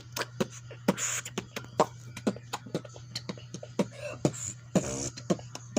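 A person beatboxing: a fast, steady run of mouth-made kick and click beats, about four to five a second, with a couple of longer hissed snare sounds.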